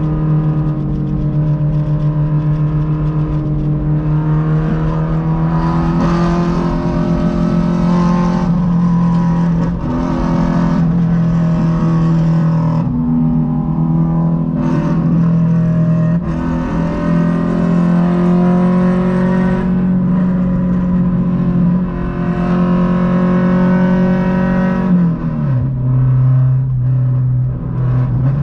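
Honda Civic EK's naturally aspirated VTEC four-cylinder engine running hard at high revs, heard from inside the cabin, its pitch wavering a little. Near the end it drops sharply in pitch and then climbs again.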